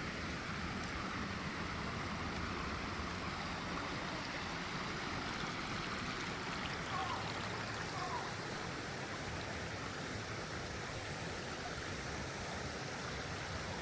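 The Shukugawa River's water flowing with a steady rush.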